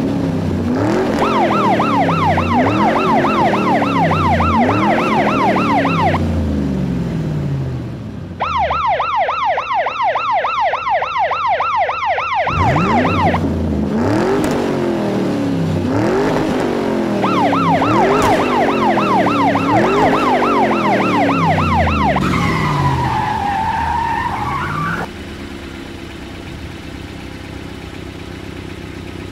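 Police siren in a fast warbling yelp, heard in three long bursts, over an engine revving up again and again. Near the end the siren turns into a slower wail, and then a quieter, steady engine hum takes over.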